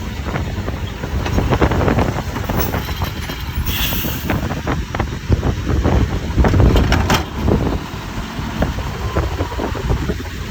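Mack slide-loader garbage truck running, with scattered knocks and clanks, under heavy wind buffeting on the microphone; a short hiss about four seconds in.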